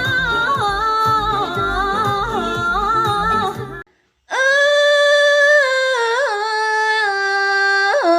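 A woman singing high, held K-pop notes: at first over a low beat, then, after a short break about four seconds in, unaccompanied, sustaining a high note with small pitch bends and slides.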